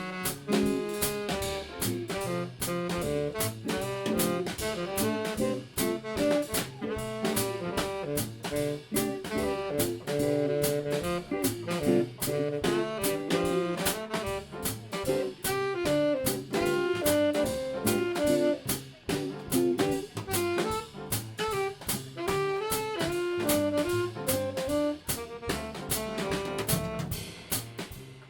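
Live jazz combo playing: tenor saxophone lines over a drum kit keeping time on the cymbals, with bass underneath.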